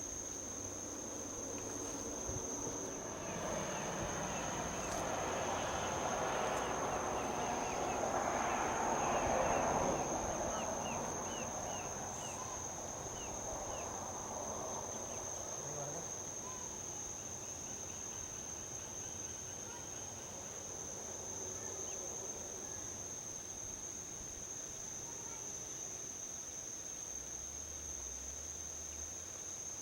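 Steady high-pitched insect trill throughout. Over it, a vehicle on the highway passes by, swelling in a wash of tyre and engine noise to its loudest about ten seconds in and then fading.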